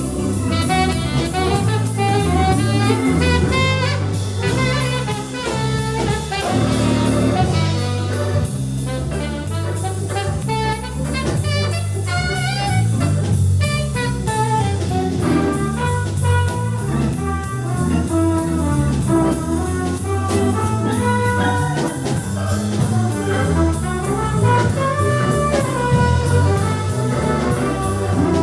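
Live jazz band playing: horns, saxophone and trumpet, carry the melody over a prominent bass line and a drum kit with steady cymbals.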